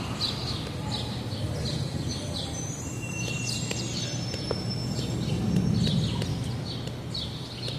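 A small bird chirping over and over, about one short chirp every two-thirds of a second, with a few thin whistled notes mixed in midway, over a steady low outdoor rumble.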